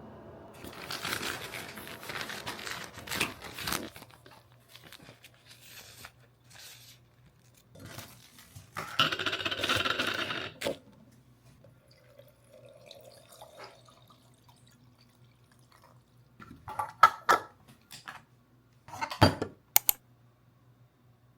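Kitchen sounds: water running or being poured in two stretches, then a few sharp clinks of dishes or utensils near the end.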